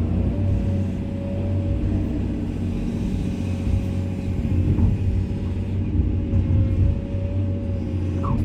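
Komatsu excavator's diesel engine running steadily under work, with a steady whine over the low engine rumble.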